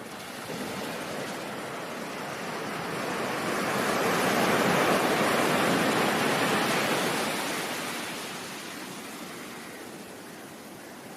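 Ocean surf: a single wave's rush of noise builds over a few seconds, peaks in the middle and washes back down to a softer hiss.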